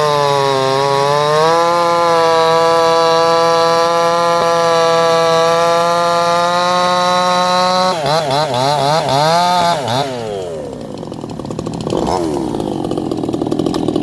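58cc Chinese two-stroke chainsaw engine held at full throttle with a steady high note, set slightly rich. About eight seconds in the pitch wavers up and down for a couple of seconds, then falls as the throttle comes off, and the engine runs lower and rougher, picking up a little near the end.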